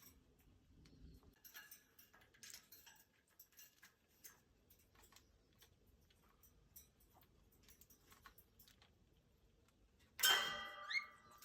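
Pet parrots in their cage making faint, scattered clicks and ticks as they move about. About ten seconds in, a short, loud parrot call rises in pitch.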